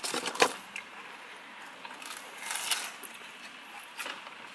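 Crunching and chewing of deep-fried battered fish and chips close to the microphone, with sharp crunches in the first half-second and another crackly crunch about two and a half seconds in.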